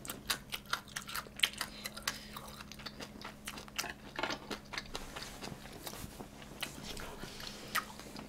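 A person chewing food close to the microphone: a quick run of small wet mouth clicks and smacks, thickest in the first half. A faint steady hum runs underneath.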